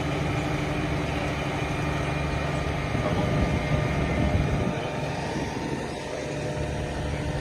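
Tractor and potato harvester running steadily in the field, the machinery growing briefly louder about three seconds in.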